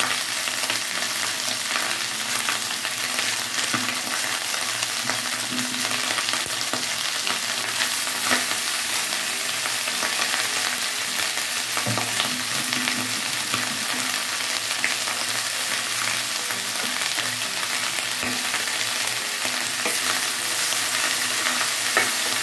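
Sliced winged beans and ground spice paste sizzling steadily in hot oil in a stainless steel wok. A metal spatula stirs and scrapes through them at times.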